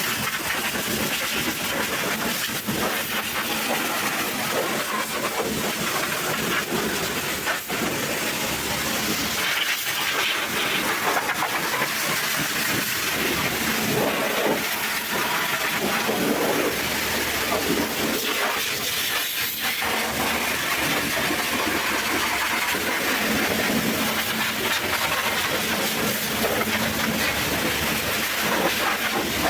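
Pressure washer spraying a high-pressure water jet with a steady hiss; the level wavers a little as the spray moves over the surface.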